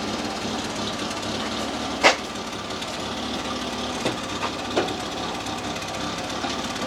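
A single sharp knock about two seconds in, then three lighter taps, over a steady background noise.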